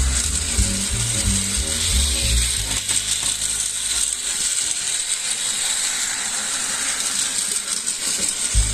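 A small mechanism running with a steady, rapid ratchet-like clicking and whirring, over background music whose bass line drops out about halfway through and returns near the end.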